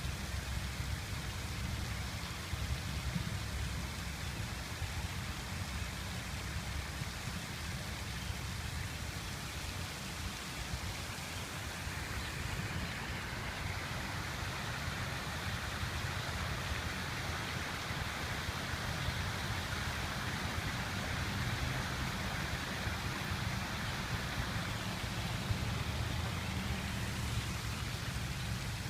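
Water fountain splashing steadily, water falling into its basin, with a low rumble underneath.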